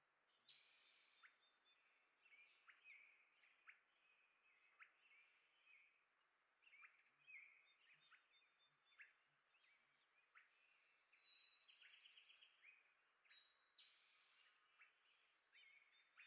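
Small birds chirping and twittering, quiet: many short high chirps and brief sharp notes, overlapping, with no pause.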